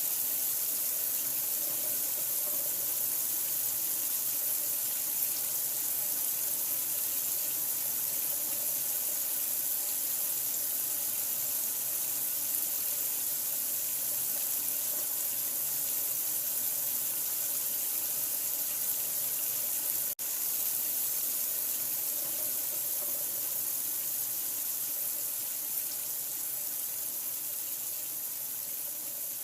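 Water running steadily from a tap, an even rushing hiss used as sleep sound for a newborn. It cuts out for an instant about twenty seconds in, then carries on unchanged.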